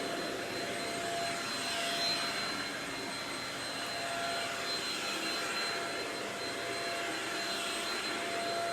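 Shark Rocket stick vacuum running steadily: a continuous rush of air with a thin high whine over it.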